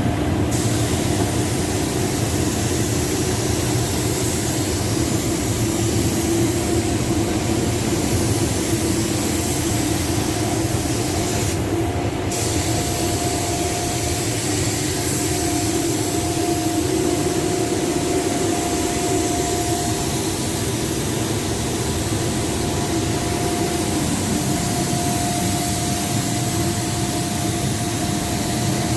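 Compressed-air paint spray gun hissing steadily while spraying paint on a car, over a steady mechanical hum; the hiss cuts out briefly about twelve seconds in, as if the trigger were let go.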